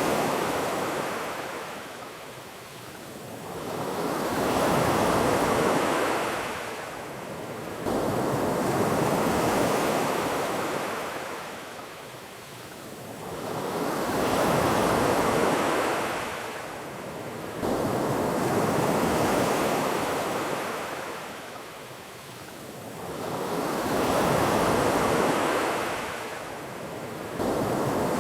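Ocean surf washing onto a beach, each wave swelling and falling away about every five seconds, with the sound jumping up abruptly a few times.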